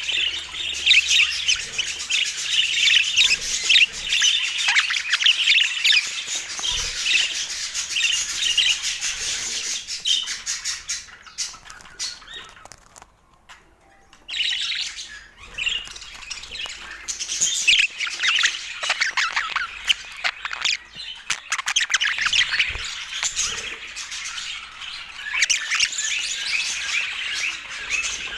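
Budgerigars chirping and chattering, a dense, rapid warble broken by a brief lull about halfway through before the chatter picks up again.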